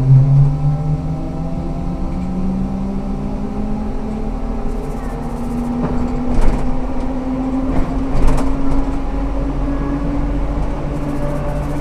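Ikarus 280T articulated trolleybus's electric traction motor whining as the bus gathers speed, the whine climbing slowly in pitch over the rumble of the running gear. Sharp knocks and rattles from the body come about six and eight seconds in.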